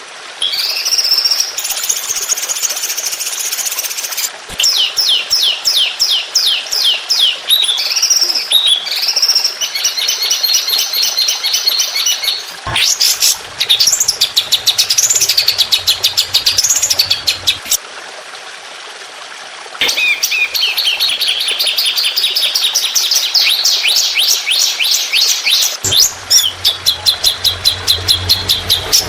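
Songbird 'tembakan' calls from a masteran training recording: rapid runs of sharp, repeated high chirps and trills, loud and nearly continuous. There is a break of about two seconds a little past the middle.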